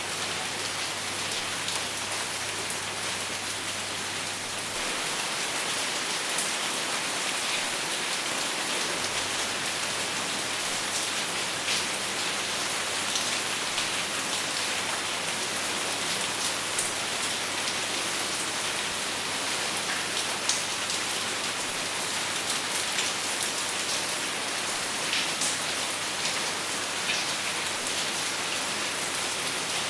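Steady rain falling without thunder, with scattered single drops ticking out above the wash; it grows slightly louder about five seconds in.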